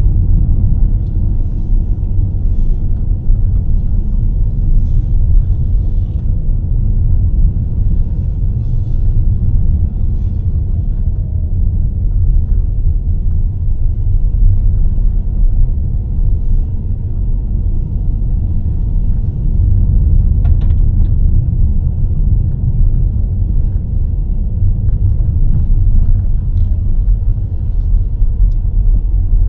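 A car being driven on a winding road, heard as a steady low rumble of engine and road noise.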